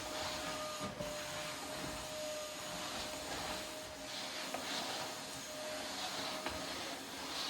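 Small electric motor running steadily, a constant hum over a hiss that swells and fades every second or so.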